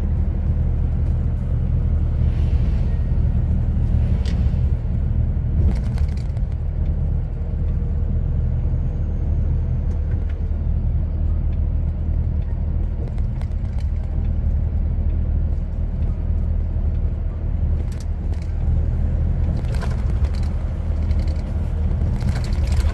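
Lorry's diesel engine and road noise: a steady low drone while driving, with a few faint clicks and rattles.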